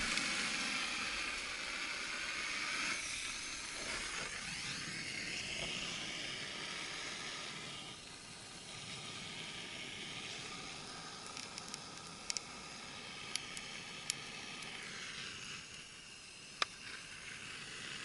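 Campfire tinder of bark, dry leaves and grass catching fire: a steady hiss of flame, louder for the first half, with a few sharp crackles in the second half.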